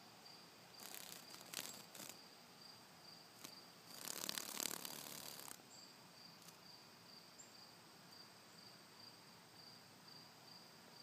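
Faint insect chirping: a high trill that pulses evenly and keeps going throughout. Brief bursts of rustling noise come about a second in, and a longer, louder one from about four to five and a half seconds.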